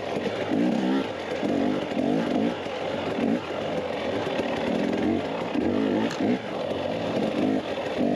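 Dirt bike engine revving up and falling back again and again under changing throttle, roughly once a second.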